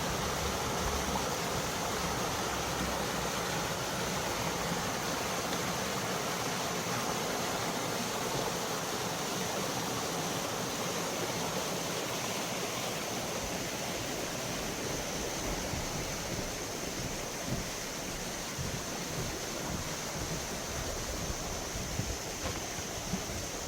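Mountain valley stream rushing steadily over rocks: a continuous wash of water noise.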